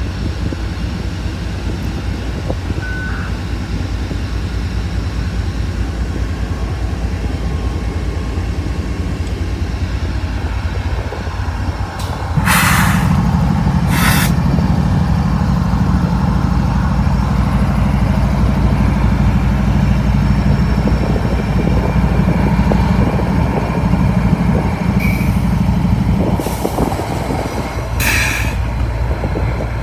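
Freight train of auto rack cars rolling past slowly with a steady low rumble. A diesel locomotive's engine drone joins about twelve seconds in and fades about fourteen seconds later. A few short, sharp noises stand out, two near the middle and three near the end.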